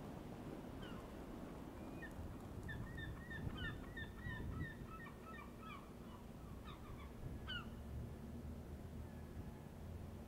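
Birds calling: many short, overlapping calls, densest in the middle of the stretch and sparser at either end, over a steady low rumble.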